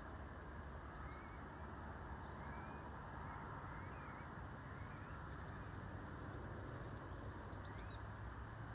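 Outdoor riverbank background of steady low rumble and hiss, with faint short rising chirps from small birds scattered through it and a few brief ticks near the end.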